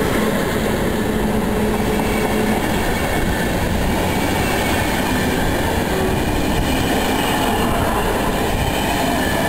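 Intercity express passenger train passing through the station at speed without stopping: a steady, loud rush of wheels running on the rails.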